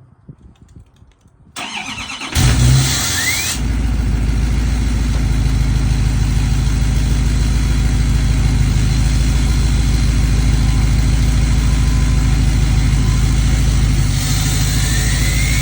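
2024 Duramax L5P 6.6-litre V8 turbodiesel, tuned and with its emissions equipment deleted, starting cold. About a second of cranking, then it catches with a brief loud flare and a short rising whistle, and settles into a steady idle. Near the end another rising whistle comes in.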